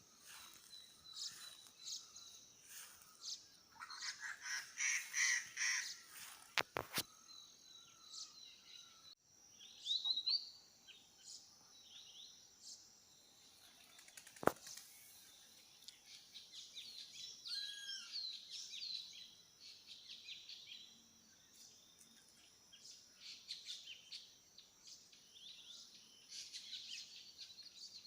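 Several wild birds chirping and calling in a forest chorus: a dense run of high chirps and trills, with further scattered calls and whistles. A sharp click comes about a third of the way in, and another, the loudest sound, near the middle.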